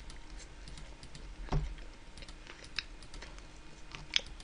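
Typing on a computer keyboard in irregular, scattered key clicks, with a louder knock about a second and a half in.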